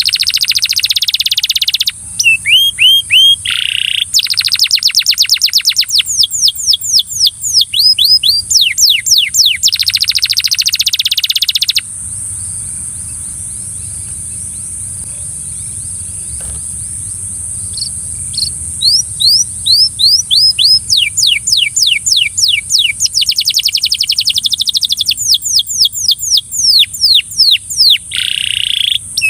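Belgian canary singing in fast rolling trills of rapidly repeated sweeping notes, breaking off for about six seconds midway before the song starts up again. A steady high hiss runs underneath.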